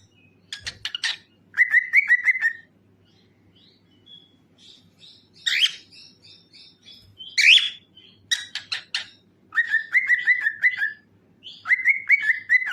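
Cockatiel singing: bursts of quick chirps and short warbling runs of rapidly repeated notes, with two louder sharp calls around the middle.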